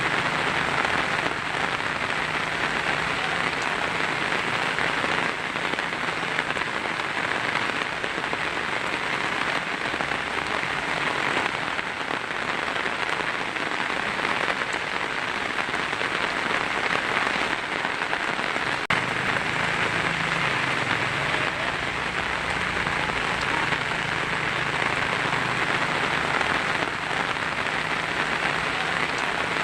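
Heavy rain falling steadily on a tin roof, an even, unbroken patter.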